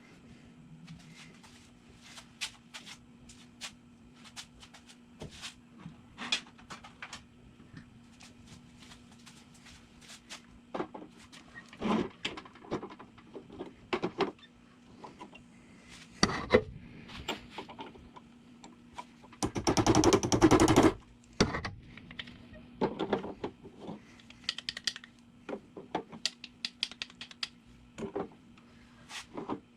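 Metal tools and parts clinking and knocking as they are handled during brake work, with a loud burst of rapid knocking lasting about a second and a half about two-thirds of the way through. A faint steady hum sits underneath.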